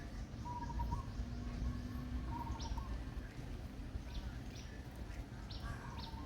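Birds chirping with short, scattered calls over a steady low background rumble.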